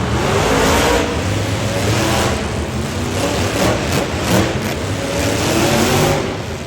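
Monster truck engine revving hard, its pitch climbing in two surges over a steady noisy rumble.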